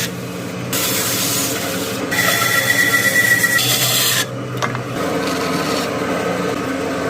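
Wood being worked by hand and power tools, a rubbing, rasping sound, in several short clips cut together; one stretch carries a steady high tone.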